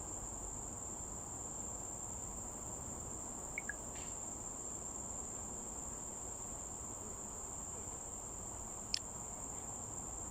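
Insects keeping up one steady, high-pitched trill without a break. A couple of tiny chirps come about three and a half seconds in, and a short click near the end.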